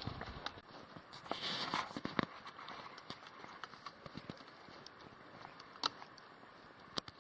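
Footsteps of a hiker walking down a trail: irregular crunching and scuffing steps.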